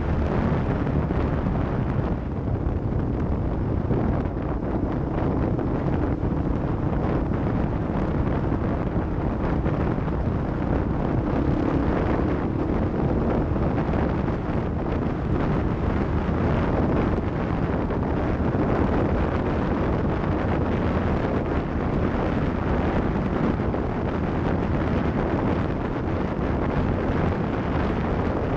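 Off-road vehicle engine running steadily, with wind buffeting the microphone.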